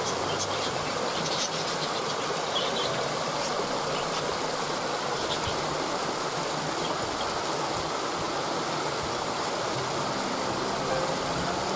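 Waterfall: a steady rush of falling water, with a few short high bird chirps in the first few seconds.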